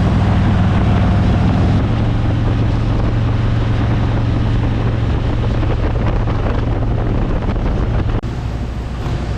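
Harley-Davidson Road King Special's V-twin engine running steadily at speed, under heavy wind noise on the microphone. The engine's hum shifts slightly about two seconds in, and the sound changes abruptly near the end.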